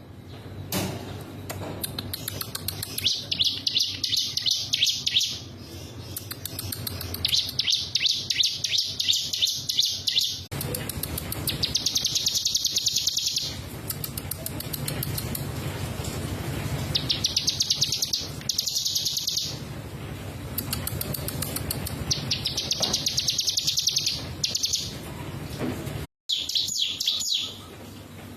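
Ciblek gunung (a mountain prinia) singing: about six fast, rattling phrases of rapid high notes, each lasting a second or two and coming every few seconds, over a steady low background rumble. The sound cuts out briefly near the end.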